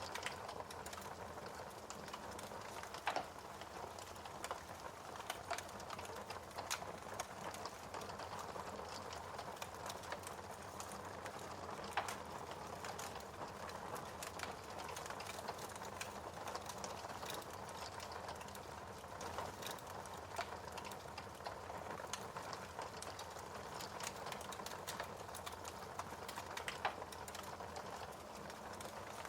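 Wood fire in a fireplace crackling, a constant soft hiss under many small crackles, with a few louder pops.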